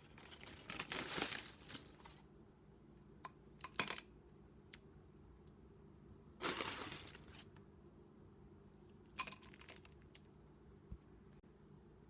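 Toppings being added to a bowl of oatmeal: two spells of quiet rustling and a few light clinks and clicks.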